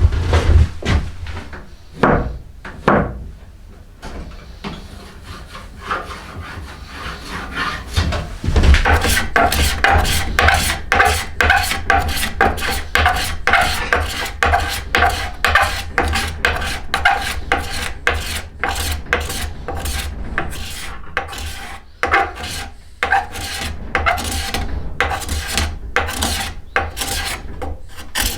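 Hand tool rasping or scraping along a yew bow stave in repeated strokes: scattered strokes at first, then quick, steady back-and-forth strokes from about a third of the way in.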